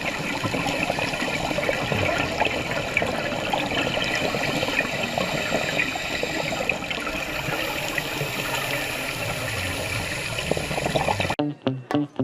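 Water rushing steadily with a grainy, splashing texture. It cuts off abruptly about a second before the end, when plucked guitar music starts.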